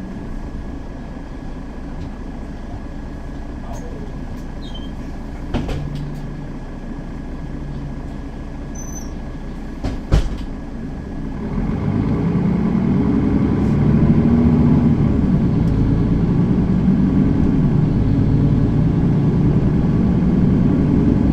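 Mercedes-Benz Citaro facelift city bus heard from inside: the engine runs low and steady at first, with two sharp knocks about six and ten seconds in. About halfway through the engine grows louder and its pitch rises and falls as the bus pulls away and accelerates.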